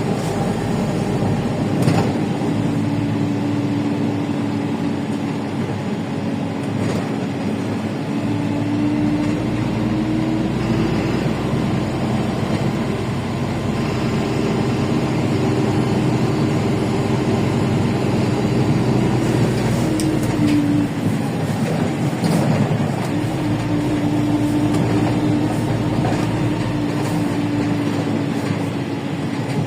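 LiAZ 5292 city bus in motion, heard from inside: its Yuchai diesel and drivetrain run under a steady road rumble, with a whine that rises in pitch as the bus gathers speed and drops as it slows, a couple of times. A few brief rattles or knocks.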